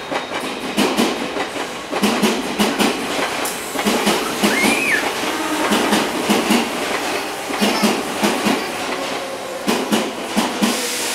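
Electric commuter train pulling out of the station, its wheels clacking over rail joints in a steady run of paired clicks.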